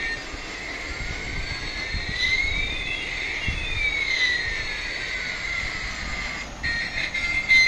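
Electronic sound effect from a battery-powered toy's speaker: a steady high tone with two sweeping tones, one rising and one falling, that cross midway.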